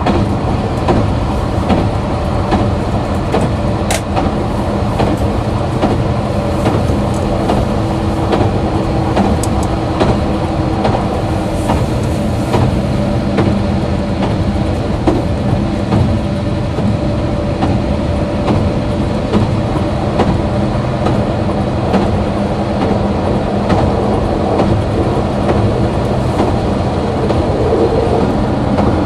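KiHa 261 series diesel railcar's engine running steadily under way, a low drone with steady pitch. Short clicks of the wheels over the rails sound here and there, a sharp one about four seconds in.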